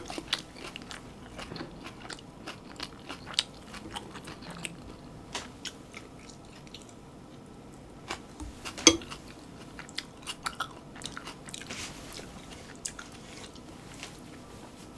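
A person eating close to the microphone: chewing and biting with wet mouth clicks. A louder sharp click comes about nine seconds in.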